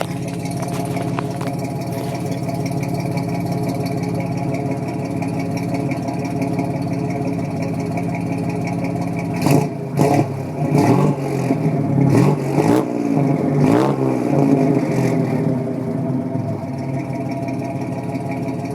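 1964 GMC pickup engine idling through freshly fitted true dual exhaust with Flowmaster 40 mufflers. About halfway through it is blipped up in a string of quick revs, then settles back to a steady idle, with a crisp, not very loud exhaust note.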